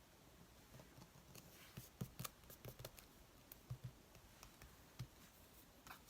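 Faint crafting sounds of paper being handled: scattered light clicks and short rustles, busiest about two to three seconds in.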